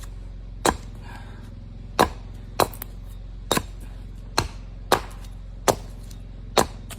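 Firewood being chopped: about nine sharp, separate chopping strikes, roughly one a second at an uneven pace, over a steady low hum.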